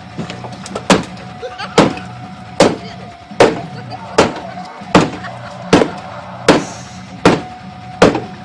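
Ten evenly spaced heavy blows, metal striking the steel of a car door at its last hinge bolt, about one every 0.8 seconds, each with a short metallic ring.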